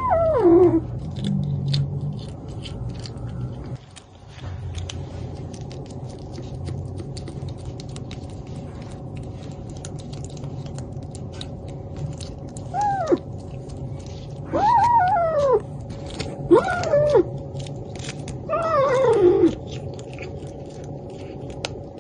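A cat meowing: one short meow at the start, then four drawn-out meows from about halfway on, each falling in pitch, over a steady low hum.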